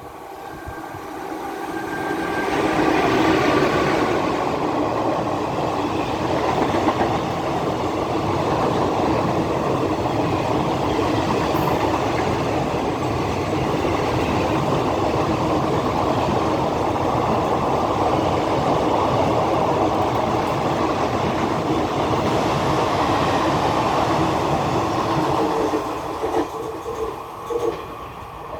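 WAP-4 electric locomotive and an empty rake of passenger coaches passing at high speed. The wheels on the rails make a loud, steady rushing noise that builds over the first few seconds and holds for about twenty seconds as the coaches go by. Near the end it falls away, with a few last wheel knocks.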